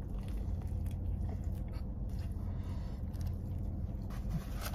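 A person biting into a chicken sandwich and chewing, with small mouth clicks, over a steady low hum in the car's cabin.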